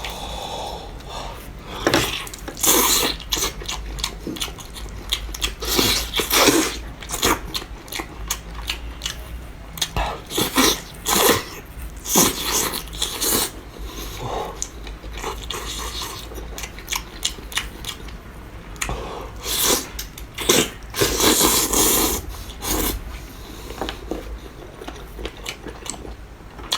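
Close-miked eating: irregular loud bites, crunches and wet chewing and smacking sounds.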